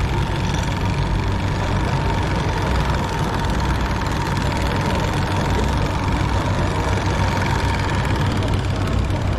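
A steady low engine-like rumble, like an idling motor, with a faint steady whine over it.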